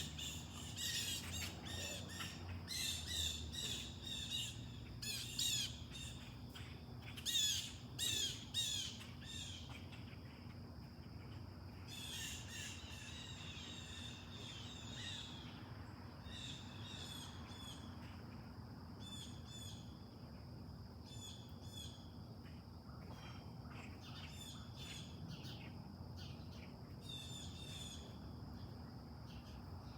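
Backyard birds calling: a run of loud, harsh calls over the first ten seconds or so, more calls at about twelve seconds, then softer repeated short chips. A steady high-pitched buzz runs underneath from about ten seconds in.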